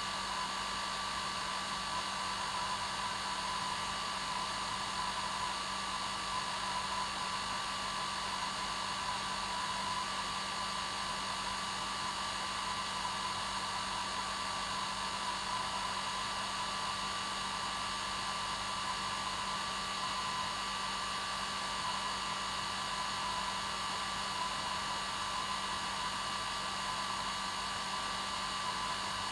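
Hair dryer running steadily: a constant rush of air with a steady motor hum and a high whine, unchanging throughout.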